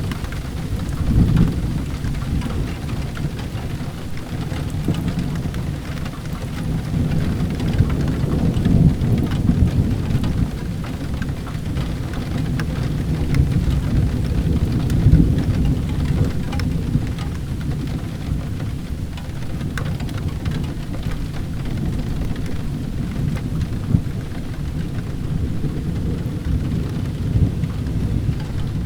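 Steady rain with low thunder rumbling underneath, swelling several times, and scattered sharp pops of a crackling wood fire.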